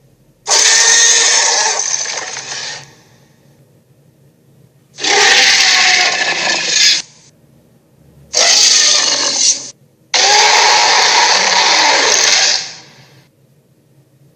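Four harsh, hissing roar-like bursts, each one to two and a half seconds long with short pauses between, played as shark or megalodon sound effects.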